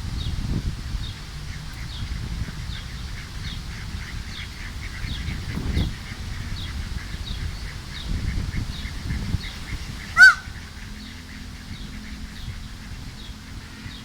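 Wind rumbling on the microphone, with a faint high chirp repeating a little more than once a second. About ten seconds in, a bird gives one short, loud honk-like call.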